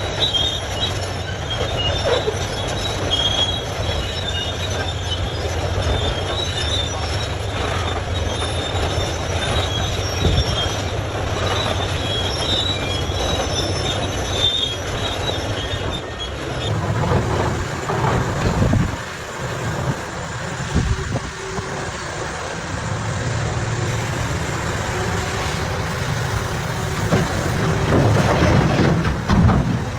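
Heavy mining machinery running with a deep rumble and an intermittent high-pitched metallic squeal. About halfway through the squeal stops and an uneven, deeper engine rumble takes over, swelling louder near the end.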